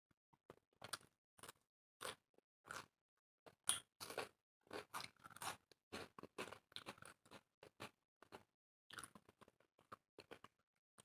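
Close-miked eating: a run of short chewing and biting sounds, crunchy and wet mouth noises coming one after another, busiest through the middle.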